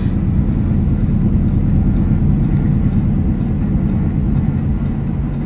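Lifted Dodge pickup truck driving, heard from inside the cab: a steady, low rumble of engine and road noise.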